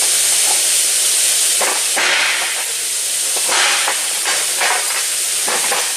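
A loud, steady hiss that swells briefly several times.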